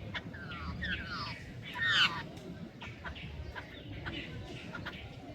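Jungle babblers calling: a quick run of harsh, squeaky notes that each fall in pitch, loudest about two seconds in, followed by fainter scattered calls over low background noise.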